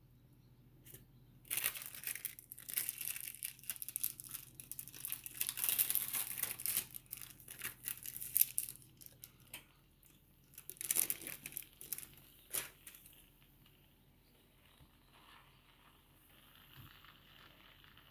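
Plastic wrapper of a cheese slice crinkling as it is peeled off, in bursts over the first half, with a few more crackles around the middle.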